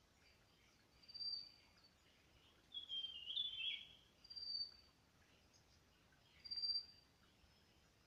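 Songbirds calling: a few short, thin, high whistled notes a couple of seconds apart, with a louder run of lower, stepping notes about three seconds in.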